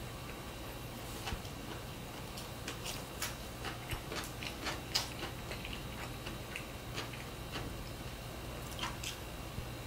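Close-up chewing of a bite of a bread-roll sandwich with lettuce: irregular small crunches and mouth clicks, densest in the middle, over a steady low hum.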